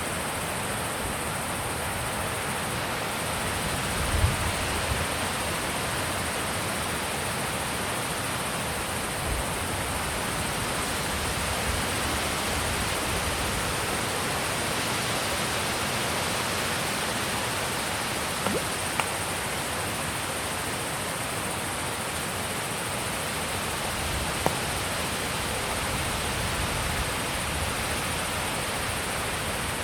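Steady wind noise, an even hiss, with a brief low thump about four seconds in and a few faint ticks later.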